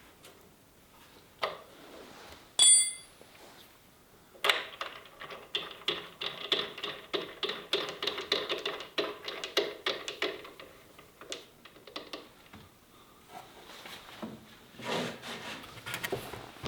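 A single bright ping, then several seconds of quick clinking taps on hard objects, followed by a few scattered knocks near the end.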